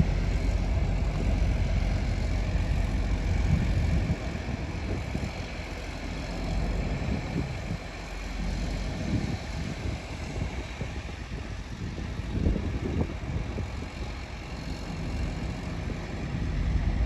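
Vehicle engine running steadily, a low rumble with no sudden changes.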